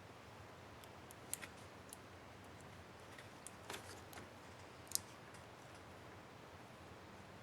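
A few light, sharp clicks of small plastic laptop keyboard parts, a keycap and its retainer clip, being handled and fitted, scattered irregularly with the sharpest about five seconds in, over faint hiss.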